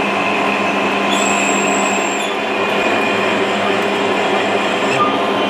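Metal lathe running with a parting-off tool slowly cutting into the spinning steel workpiece: a steady machine hum and cutting noise, with a brief high whine about a second in.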